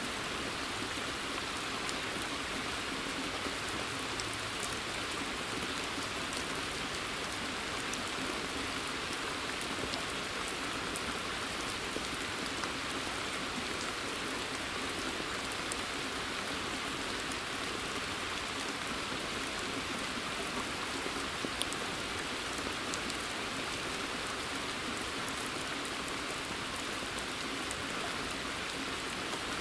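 Steady rain falling in a forest, with scattered small ticks of individual drops striking water and leaves.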